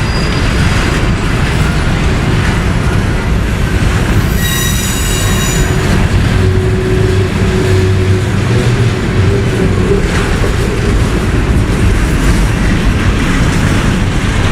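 Freight train cars rolling past with a steady rumble of wheels on rail, and a brief high-pitched wheel squeal about four seconds in.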